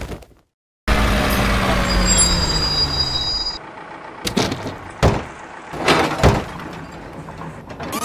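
A loud rushing, vehicle-like sound with a low hum that falls in pitch for about three seconds, then several sharp knocks and thuds as a plastic toy truck tumbles down a sandy bank and lands upside down.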